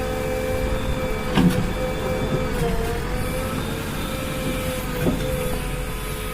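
JCB backhoe loader running at work, with a steady whine that dips briefly in pitch partway through, and two sharp knocks, one about a second and a half in and one near five seconds.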